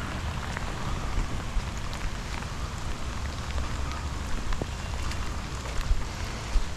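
Steady rain falling, with scattered single drops tapping close by over a low rumble.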